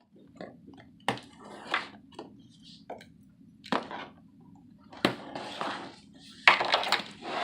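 Handling noise from a package being unpacked on a hard surface: several sharp knocks and clatters, each followed by rustling and scraping.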